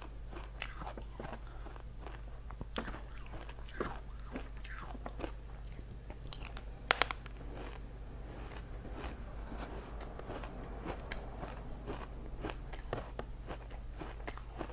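A person biting and crunching ice close to the microphone, with crisp crunches throughout. The sharpest pair of bites comes about seven seconds in. A steady low hum runs underneath.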